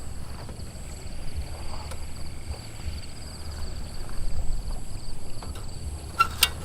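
Night forest insects trilling steadily at several high pitches, one with a fast pulse, over low rumble and scattered light clicks, with a sharper click near the end.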